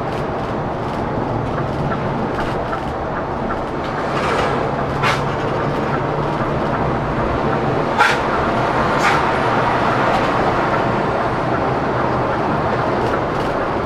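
A Scania K410CB coach running along the road: a steady engine and road-noise drone, with a few sharp knocks or rattles about five, eight and nine seconds in.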